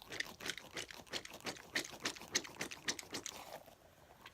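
Close-up sticky crackling as fingers squeeze and peel off a small sticky squishy toy: quick, irregular clicks that thin out near the end.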